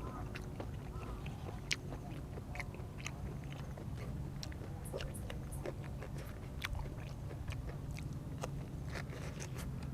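Close-up chewing and biting of food, with irregular wet mouth clicks and smacks, over a steady low hum.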